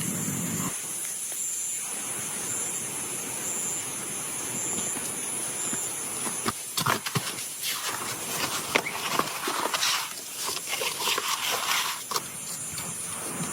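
Steady rain hiss in the forest with a high, even insect drone above it. About halfway through, irregular crackling and rustling starts and goes on in bursts.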